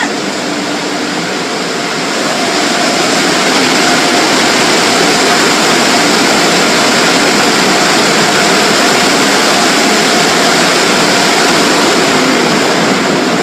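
Automatic car wash air dryer blowers running: a loud, steady rush of air that builds over the first few seconds and then holds even.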